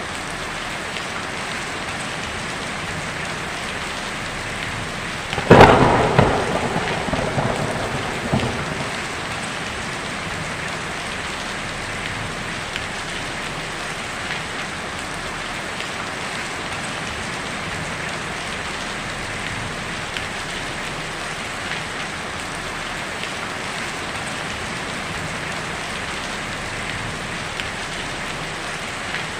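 Heavy rain drumming steadily on a tin roof, with one sharp thunderclap about five and a half seconds in that rumbles and crackles away over the next few seconds.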